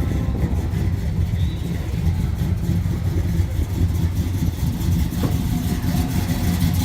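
Muscle car engine running at low revs, a steady deep rumble.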